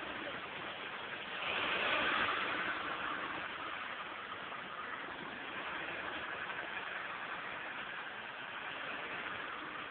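Car engine running, heard as a dull, hissy noise that swells louder about a second and a half in, then settles back.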